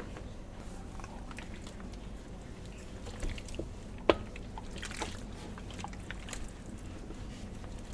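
Scattered light knocks and clicks of food being handled, over steady background noise; the sharpest knock comes about four seconds in.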